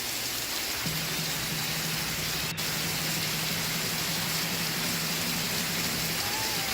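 Steady rain noise, an even hiss of falling drops. A faint low steady tone sounds under it from about a second in until near the end, with a momentary dropout about two and a half seconds in.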